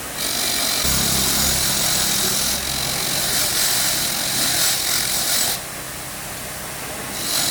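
A power tool running, with a hissy, gritty noise that eases off about five and a half seconds in and surges again briefly near the end.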